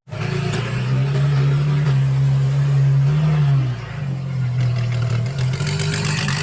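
Racing car engine running at high revs, with a steady pitch that dips slightly about four seconds in. It starts abruptly.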